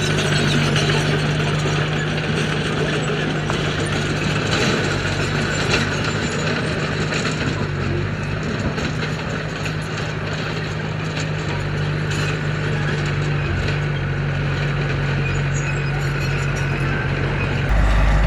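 Heavy diesel construction machine running steadily under load, its engine holding a constant low note over a spread of clattering and grinding noise. Just before the end the sound changes abruptly to a deeper, slightly louder hum.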